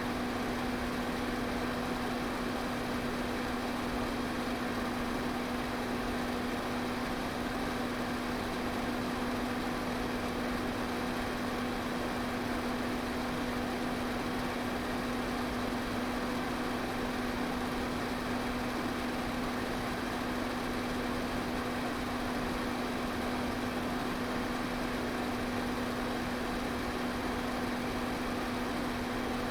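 Pedestal fan running steadily: an even rush of air with a steady hum.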